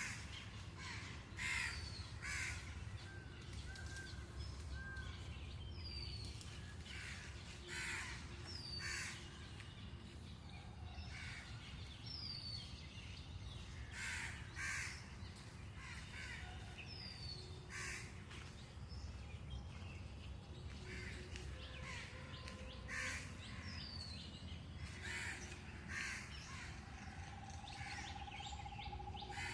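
Birds calling: short harsh caw-like calls repeated every second or two, mixed with small high chirps from other birds, over a steady low rumble.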